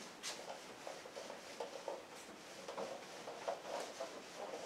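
Faint, scattered scratches and light taps over quiet room tone.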